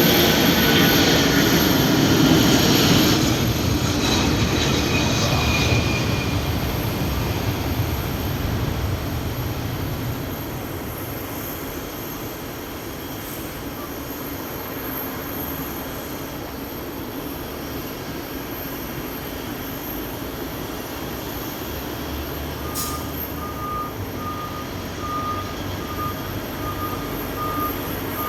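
Airliner's jet engines at take-off power, loud with a high whine at first and fading away over about ten seconds as the plane departs, leaving a steady low hum. Near the end a vehicle's reversing alarm beeps steadily, about twice a second.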